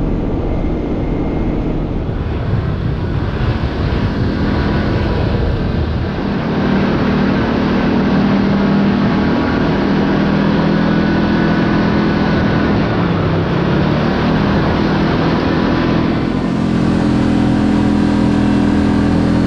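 Side-by-side UTV engine running while the vehicle moves along a dirt trail, over a steady rumble of tyres on the ground. The engine's pitch drops about two-thirds of the way through and then rises again near the end.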